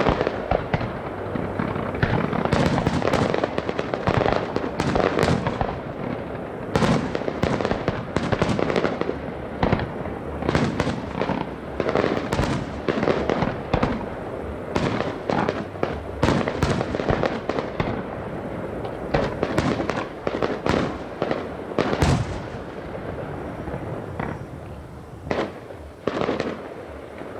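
Aerial fireworks display: a rapid, continuous run of shell bursts and bangs, several a second, over a constant crackle, easing off near the end.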